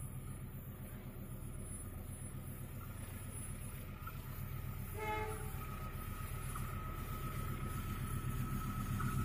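A diesel passenger train approaching: a steady low engine rumble that grows louder, with a short horn toot about five seconds in, followed by a thin steady high tone.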